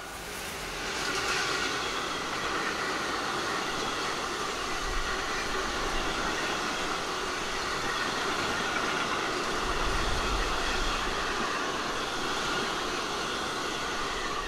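Tank wagon freight train passing close at speed behind an HSL class 186 electric locomotive: a steady rolling rush of wheels on the rails as the long line of tank wagons goes by.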